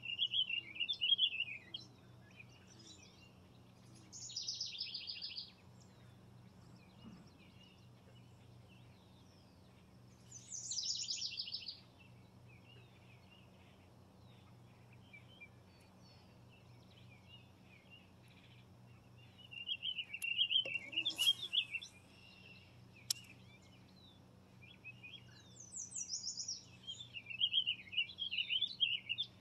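Songbirds singing: short warbling phrases at the start, about two-thirds through and near the end, with two fast, high buzzy trills in between. Two sharp clicks come about two-thirds through.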